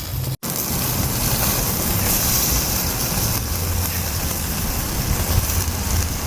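Pork sizzling over a barbecue fire: a steady hiss, with a low rumble beneath it. The sound cuts out for an instant near the start.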